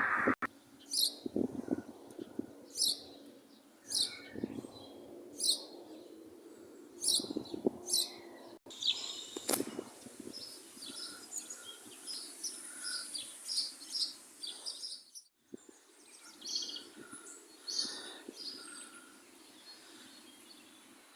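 Small birds chirping outdoors: short high chirps repeated roughly once a second, then denser chirping with repeated shorter, lower notes in the second half.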